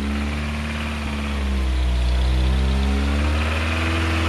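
Off-road vehicle engine running under load, its pitch dropping about a second in and then climbing as it revs up.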